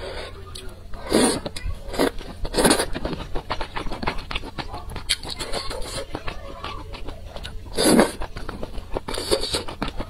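A person chewing food close to a clip-on microphone: a run of small wet mouth clicks, with a handful of louder, longer mouth sounds about a second in, twice more around two to three seconds, and twice near the end.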